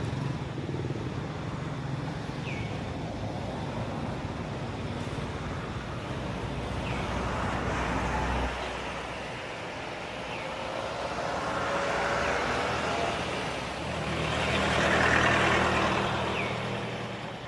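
Motor vehicles running and passing, the engine noise swelling louder around two-thirds of the way in and again near the end, with faint short chirps every couple of seconds.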